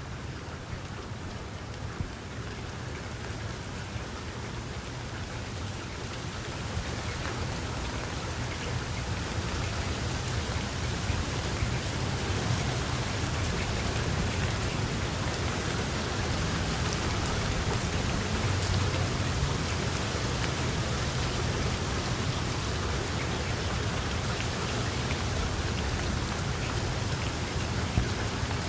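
Steady rain falling and pattering on surfaces, building up over the first several seconds and then holding heavy, with a low rumble beneath and scattered sharper drop ticks.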